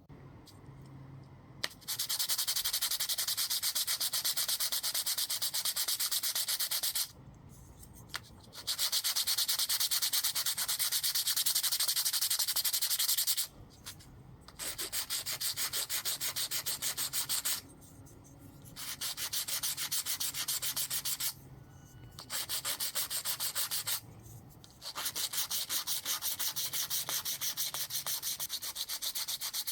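Sandpaper being worked fast over small wooden blocks in six bouts with short pauses between, scouring off old glue and fabric residue.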